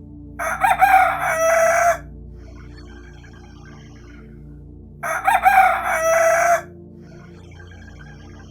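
A rooster crowing twice, each crow lasting about a second and a half, with fainter crows between them.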